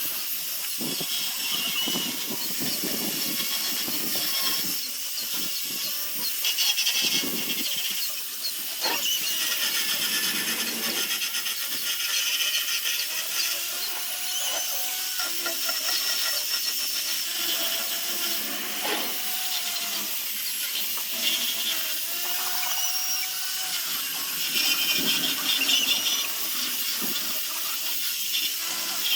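Power sanding tool running against zelkova root wood, a steady hissing grind with a motor tone that wavers in pitch as the pressure changes.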